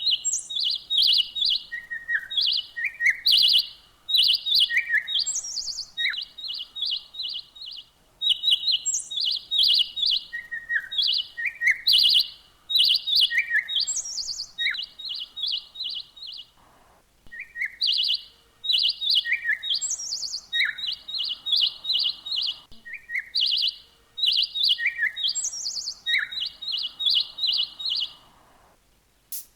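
A songbird singing in repeated phrases. Each phrase is a quick run of high chirps, mixed with short falling notes and now and then a rising whistle. Brief pauses fall between the phrases.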